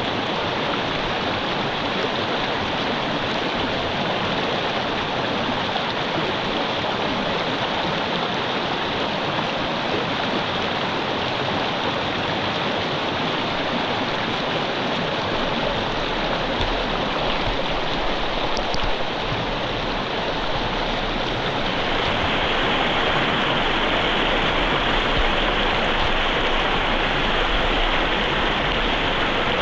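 Mountain river flowing: a steady, even rush of running water that grows a little louder about 22 seconds in.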